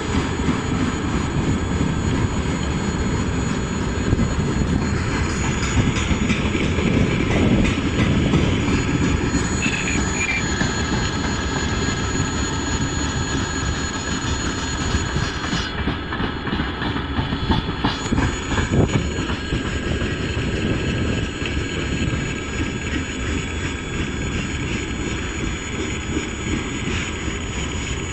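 Freight train wagons rolling steadily past at a level crossing: a continuous rumble and clatter of steel wheels on the rails.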